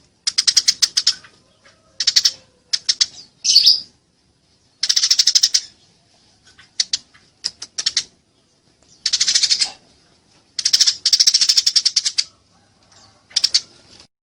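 Eurasian tree sparrows chattering in the rapid, excited calls of fighting birds: bursts of fast, high chirps, each about a second long, broken by short pauses.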